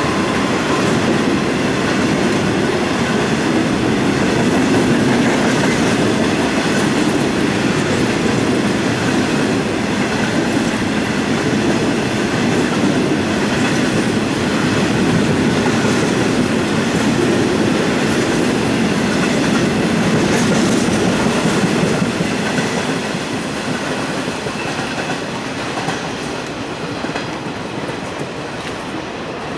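Loaded coal hopper wagons of a long freight train rolling past close by, with a steady clatter of wheels over the track. The sound fades over the last several seconds as the end of the train moves away.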